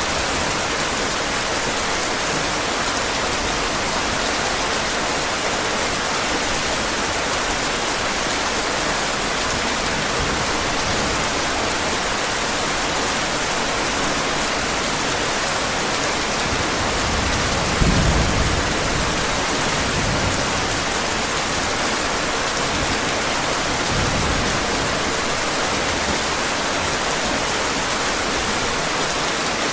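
Steady heavy rain falling, with low rolls of thunder: the strongest about eighteen seconds in, fainter ones soon after and around twenty-four seconds.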